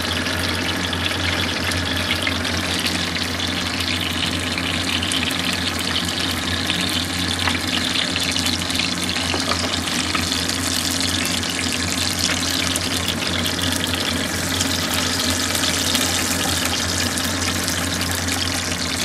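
Chicken kebabs shallow-frying in hot oil: a steady, loud sizzle full of fine crackles, with a steady low hum underneath.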